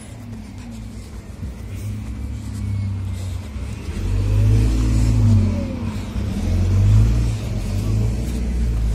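Passenger train pulling away and gathering speed: a low rumble that swells sharply about four seconds in, with motor tones that rise and fall over it.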